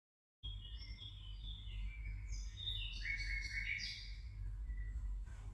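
Several birds chirping, many short overlapping high calls over a steady low background rumble, starting abruptly about half a second in.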